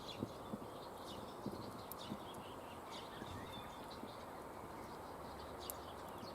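Small birds chirping with quick falling chirps, over a campfire crackling with a few sharp pops.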